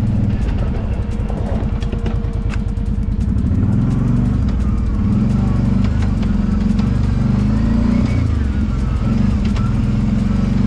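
Kawasaki Brute Force 750 ATV's V-twin engine running under way on a trail, a low, fast-pulsing note in the first few seconds that rises and varies in pitch from about three to four seconds in as the engine picks up.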